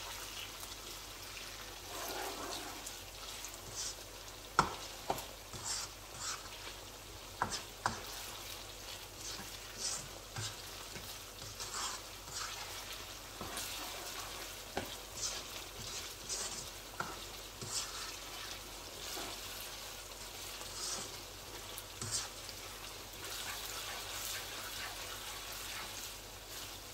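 Onion, garlic, tomato and green chillies sizzling in oil in a non-stick wok while a spatula stirs them, with scattered clicks and scrapes of the spatula against the pan, the sharpest about four and a half seconds in.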